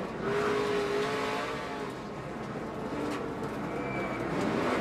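NASCAR race truck's V8 engine running at racing speed, heard from the in-car onboard camera, with a steady engine note.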